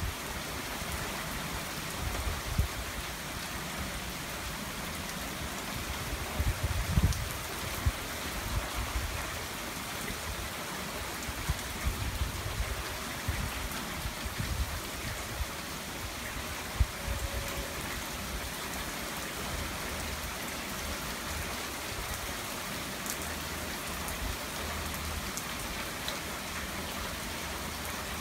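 Steady rain from a squall-line thunderstorm falling and splattering on the ground, with brief low rumbling bursts now and then.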